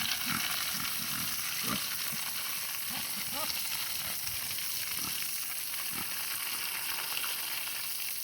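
Garden hose spraying water in a steady hiss, filling the pigs' mud wallow. Pigs give a few short low grunts in the first six seconds.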